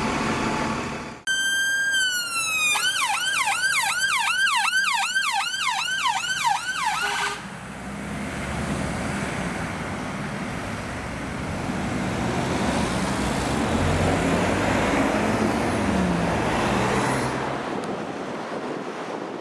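Emergency vehicle siren: one falling tone, then a fast yelp of rising sweeps about three a second that cuts off after several seconds. The vehicle's engine and road noise follow as it drives past, loudest near the end.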